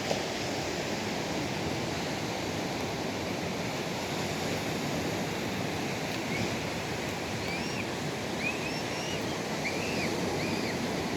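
Steady rushing of water outdoors, with a few short high chirps in the second half.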